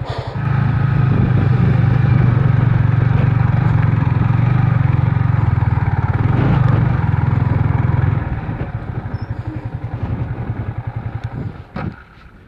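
Motorcycle engine labouring under heavy load on a steep, rough climb, the bike struggling to pull. About eight seconds in it drops to a weaker, pulsing beat, and a few knocks come near the end.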